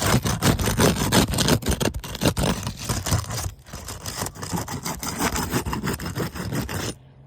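Repeated scraping and prying under an asphalt roof shingle as it is worked loose from its sealant strip, over a steady low rumble. The sound cuts off suddenly near the end.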